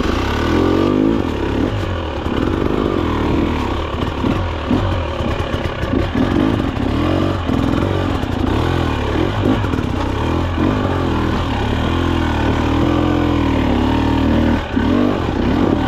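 Husqvarna TE300 TBI two-stroke dirt bike engine with an FMF pipe, ridden with the throttle blipped on and off so the revs rise and fall every second or so, with some clatter from the bike.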